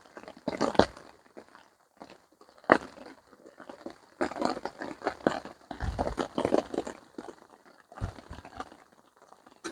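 Irregular clicks, knocks and rustling as a camping pot and a cup are handled to serve a hot mocha, busiest in the middle.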